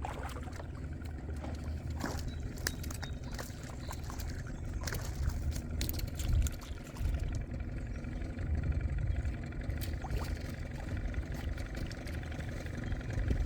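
A boat motor running steadily with a low hum, with scattered light clicks and knocks.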